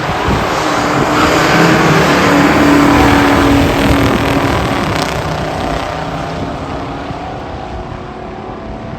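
Stock muscle cars making a drag-strip pass at full throttle: loud engine noise that swells to its loudest about three seconds in, then fades as the cars run away down the track.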